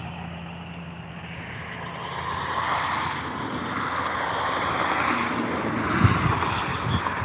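Distant engine noise, a steady rushing that swells from about two seconds in, with a couple of short low thumps near the end.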